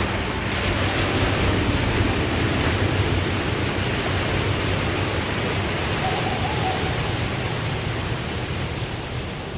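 Waterfall: a steady rush of falling water that swells a little over the first second or two.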